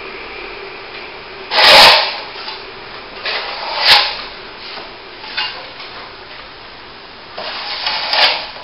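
Steel plastering trowel scraping over wet top-coat plaster on a plasterboard repair, in separate strokes. The loudest stroke comes about a second and a half in, a short sharp one near four seconds, and a longer one near the end.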